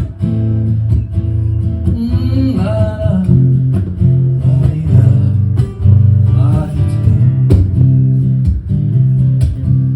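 Song on strummed acoustic guitar with steady bass notes, and a singing voice coming in twice without clear words.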